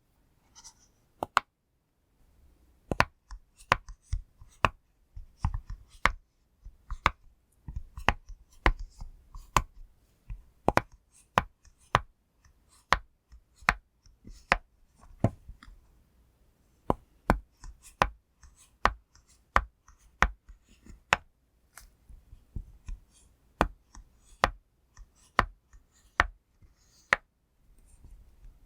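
Silicone pop-it fidget toy bubbles being pressed one after another, making sharp pops at an uneven pace of about two or three a second; the pops start in earnest about two seconds in.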